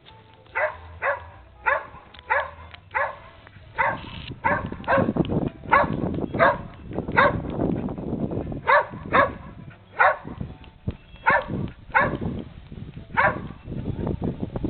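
A dog barking repeatedly, starting about half a second in, at roughly one or two barks a second.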